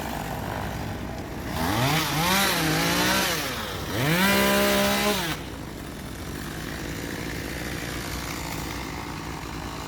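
Small gas chainsaw revved up twice, the second rev held briefly at high speed before dropping back to idle. The saw is running low on fuel, and its owner says it needs a tune-up.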